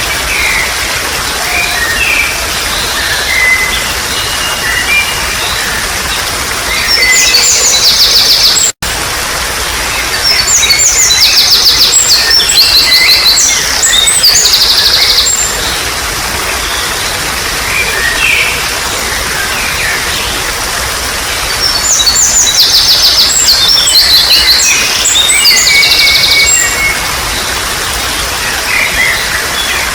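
Running water babbling steadily with wild songbirds calling over it. Several loud spells of rapid, trilling song, one each around 7–9 s, 10–15 s and 22–27 s. The sound cuts out for an instant just before 9 s.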